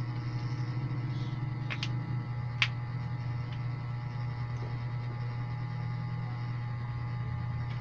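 A steady low electrical hum with a few isolated keyboard key clicks: a quick double click a little before two seconds in, then a single louder click just after.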